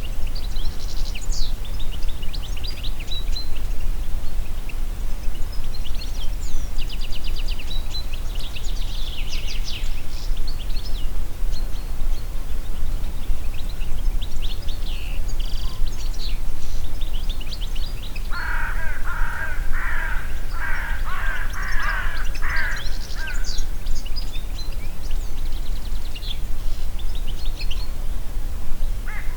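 Wind in a forest, with a steady low rumble under songbirds singing high, quick trills and phrases throughout. About two-thirds of the way in, a bird gives a run of some eight lower, repeated calls lasting about five seconds.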